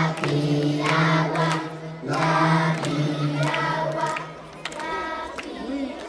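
Group of children singing together in held, sustained phrases; the singing drops off about four seconds in.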